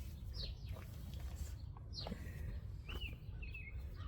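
Small birds chirping: several quick down-slurred chirps and a few short two-note calls, over a steady low background rumble.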